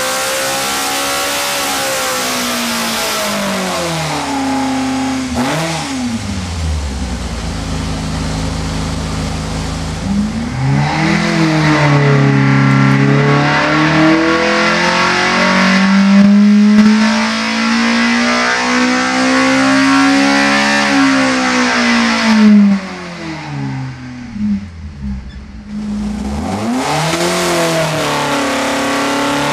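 Race-tuned Alfa Romeo Twin Spark 2.0 16V four-cylinder engine, about 247 hp, being revved hard, its pitch repeatedly climbing and falling. About 22 seconds in the revs drop sharply and it runs quieter for a few seconds before climbing again.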